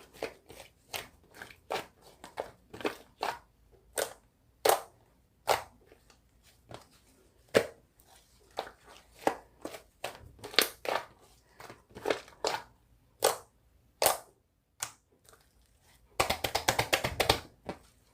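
Slime worked by hand: irregular sharp pops and clicks, then a quick run of crackling near the end.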